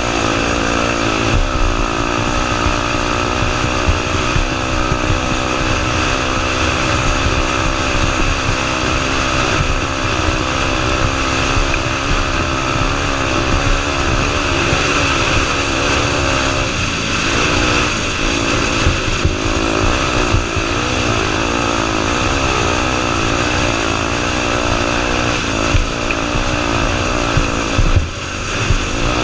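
Honda Tornado 250 single-cylinder four-stroke dirt bike engine running under riding load, its pitch rising and falling repeatedly as the throttle is worked, over a constant rush of noise.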